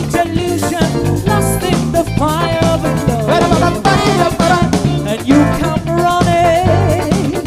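Soul band playing a song: drum kit, bass guitar and electric guitar, with a lead melody that bends and wavers in pitch over a steady beat.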